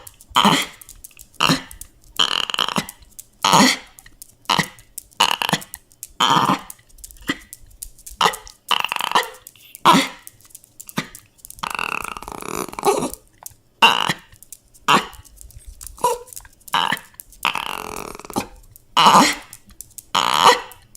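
A dog whining and crying in a run of short, separate calls, some brief and some drawn out for about a second, with short pauses between them.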